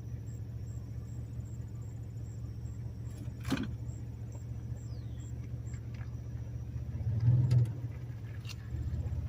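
Vehicle engine idling as a steady low hum, with a short knock about three and a half seconds in and a brief louder swell about seven seconds in.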